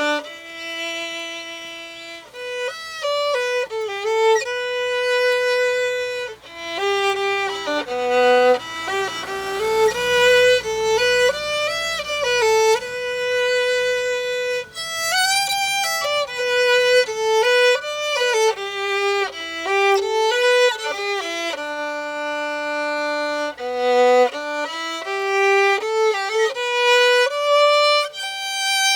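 Background music: a solo violin playing a slow melody, note gliding into note, over a faint low accompaniment.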